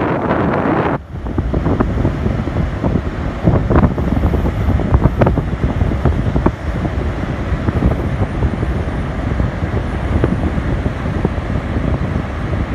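Strong wind buffeting the microphone: a loud, steady low rumble with scattered crackles. It dips sharply for a moment about a second in.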